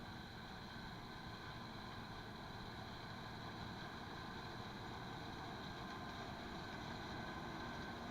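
Farm machinery engine running at a steady pace, a faint, even drone.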